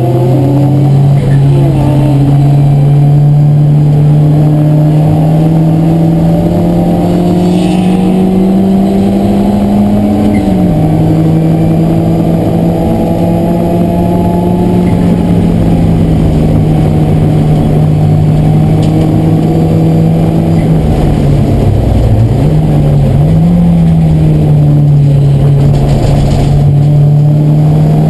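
Race car's engine heard from inside the cabin, pulling hard on a lap: its pitch climbs steadily for about ten seconds, then drops sharply with an upshift and holds level. About two-thirds of the way through it dips and quickly rises again as the driver lifts off and gets back on the throttle.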